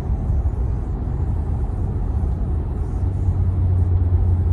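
Kia Stinger twin-turbo cruising, heard from inside the closed cabin: a steady low rumble of engine and road noise. A low hum grows stronger about three seconds in.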